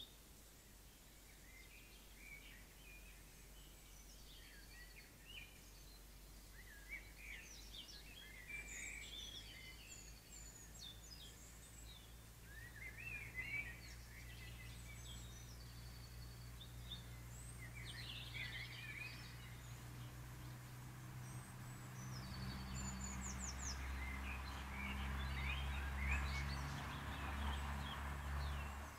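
Birds chirping and calling in short, scattered phrases of quick high sweeps and trills. From about two-thirds in, a low steady hum with a rising rush of noise builds under them, loudest near the end.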